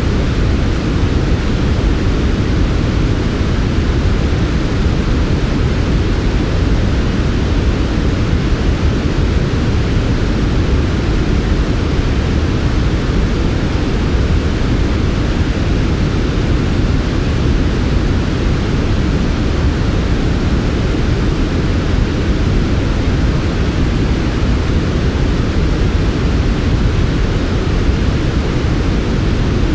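Steady sleep noise track of soft white noise: an unbroken, even hiss that is fullest in the low end, a deep rush under a fainter high hiss, with no changes or events.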